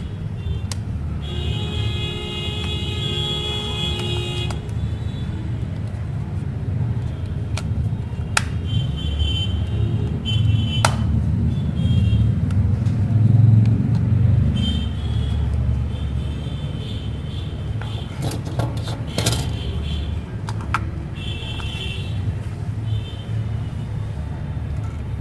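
A steady low rumble, a little louder about halfway through, with faint high tones now and then and a few sharp clicks.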